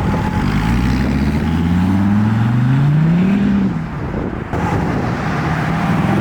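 A car's engine accelerating hard. Its pitch climbs for about three seconds, dips briefly near four seconds in like a gear change, then the engine pulls on at a lower pitch.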